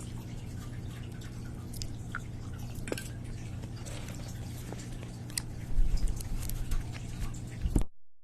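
Faint chewing and small mouth clicks close to the microphone over a steady low electrical hum, with a few louder low thumps near the end. The audio then cuts out abruptly to dead silence: the livestream's connection dropping.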